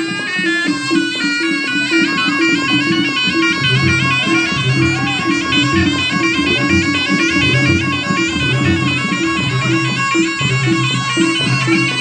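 Reog gamelan accompaniment: a slompret, a double-reed shawm, plays a fast, wavering melody over repeated low gong-chime tones and drumming in a steady rhythm.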